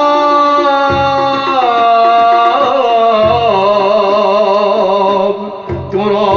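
Arabic devotional song (inshad): a male voice holds long, ornamented notes that step down in pitch, over instrumental accompaniment with a low beat recurring about every two and a half seconds. The sound dips briefly near the end.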